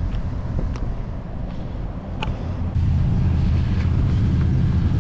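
Holden HJ Premier V8 idling with a steady low rumble. It gets abruptly louder and closer about three seconds in.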